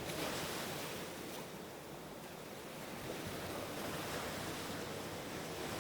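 Gentle ocean surf: a steady wash of waves that swells a little near the start and again about three seconds in.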